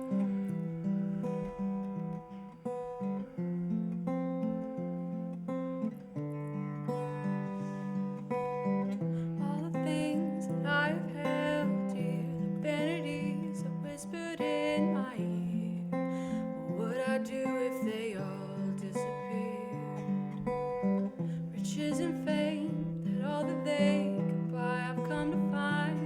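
Acoustic guitar playing the slow opening of a worship song, with a singing voice joining about ten seconds in.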